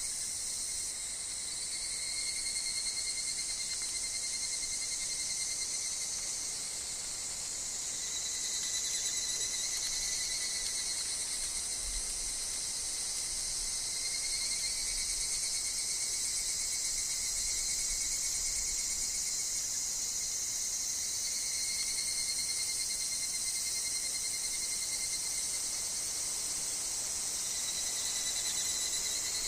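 Chorus of insects in a forest, with higurashi (evening cicadas) among them: a high shrill sound that swells and fades every few seconds over thinner steady trills lower down.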